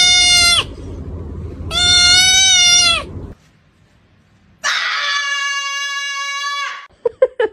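Three long, drawn-out animal calls, each held at a steady pitch. The first two are higher, and the last, lower and steadier, comes after a short pause. Some short sharp sounds follow near the end.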